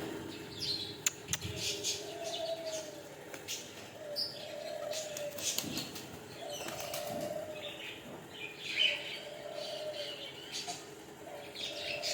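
Cage birds: doves cooing in a low note repeated about every second and a half, over high chirping from small birds and some wing flapping.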